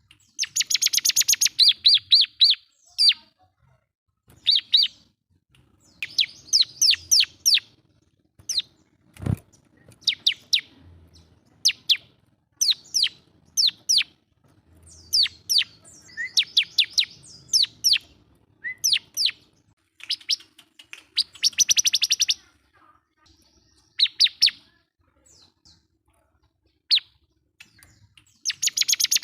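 Bar-winged prinia (ciblek) in full song: bouts of sharp, high chirps and fast trills with short pauses between them, the song used to call a rival. A single low thump about nine seconds in.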